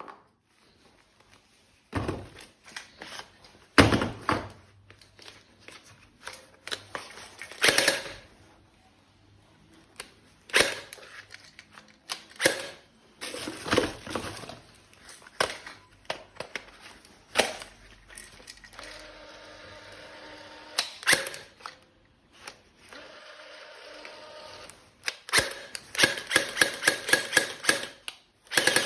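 Plastic toy gun being handled and fired: scattered sharp clicks and short rattling bursts, then a fast run of rapid-fire shots near the end.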